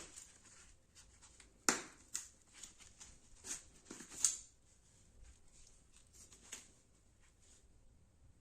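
A fixed-blade knife being handled: a series of sharp clicks and short scraping strokes, the loudest about two seconds in, which die away about a second before the end.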